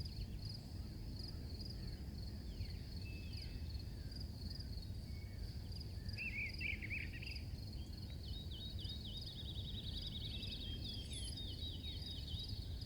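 Crickets chirping steadily in a fast, even pulse, with a few bird chirps about halfway through and a rapid bird trill a little later, over a low background rumble.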